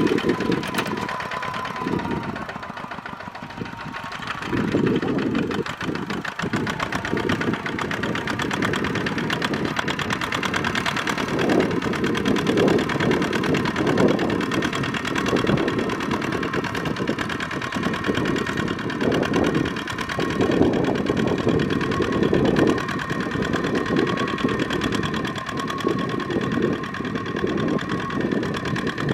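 Kubota mini tractor's diesel engine running steadily with a knocking beat, its low note swelling and easing every few seconds as it works under plowing load.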